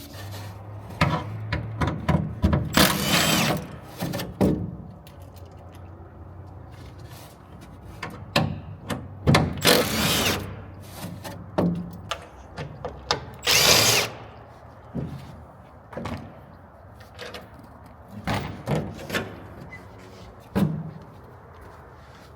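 Handheld power drill run in three short bursts, with scattered knocks and clatters of tools and metal parts in between.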